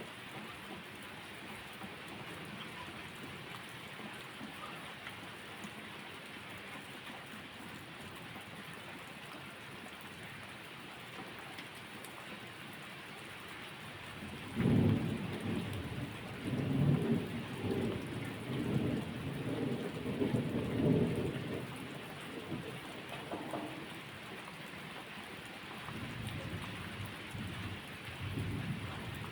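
Steady rain falling, with a long roll of thunder that starts about halfway through and rumbles on for several seconds, then a fainter rumble of thunder near the end.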